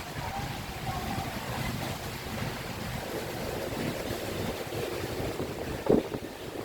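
Strong gusting storm wind, with wind buffeting the microphone. A single brief thump about six seconds in.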